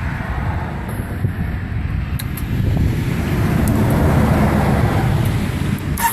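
Low, unpitched vehicle rumble with wind on the microphone, growing louder in the second half and ending in a sharp click.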